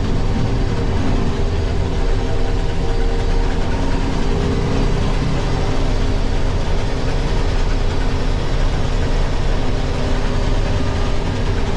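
International Harvester 1440 combine running steadily while harvesting soybeans: a constant engine and threshing-machinery drone, with several steady tones over a low rumble.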